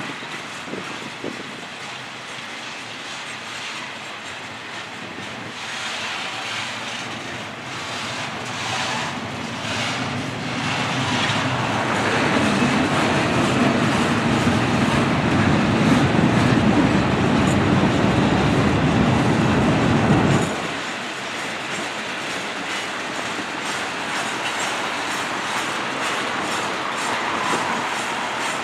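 Freight train boxcars rolling past at close range, wheels clattering over the rail joints. A heavier low rumble builds partway through and then cuts off abruptly, after which the cars roll on more quietly.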